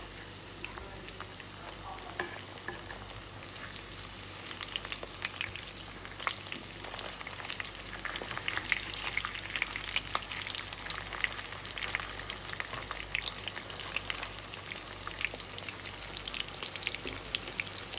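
Corn and shrimp fritters shallow-frying in hot oil, a steady sizzle full of small crackles and pops that grows busier a few seconds in.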